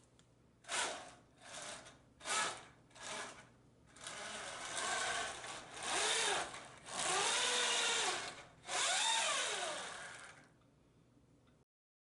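3D-printed RC tracked tank's drive motors and tracks whirring: four short bursts, then four longer runs with the motor pitch rising and falling as the throttle changes.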